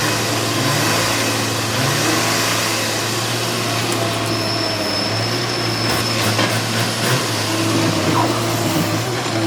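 Diesel engine of a Hyundai 210W wheeled excavator running steadily with a low hum. A thin high whine sounds briefly about halfway through.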